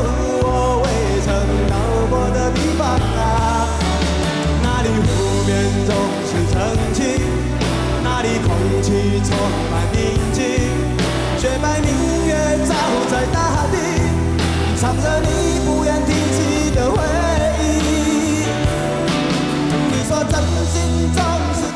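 Live pop-rock band performance: a male singer singing a Mandarin song over a steady pulsing bass and drums.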